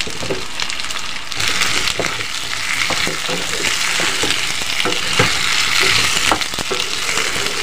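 Spiny gourd pieces sizzling in hot mustard oil and fried onion, the sizzle swelling about a second and a half in. A slotted spatula scrapes and knocks against the pan as the pieces are stirred.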